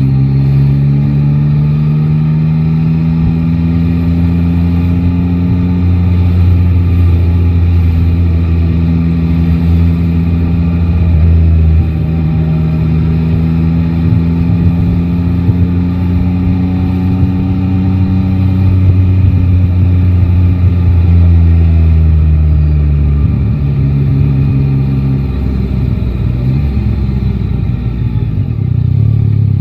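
Yamaha Tracer 9 GT's three-cylinder engine pulling at moderate revs in city traffic. Its pitch rises gently twice and holds, then drops about two-thirds of the way in as the bike slows, running lower and more unevenly near the end.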